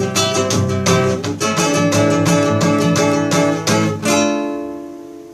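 Acoustic guitar strumming the closing chords of a song. A final chord is struck about four seconds in and left to ring out and fade.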